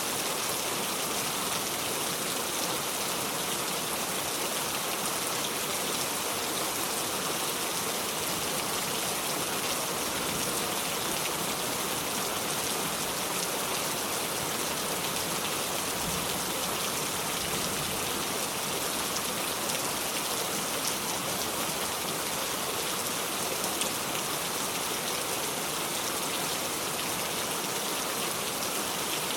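Steady heavy rain falling without thunder, an even hiss with the patter of drops hitting a surface.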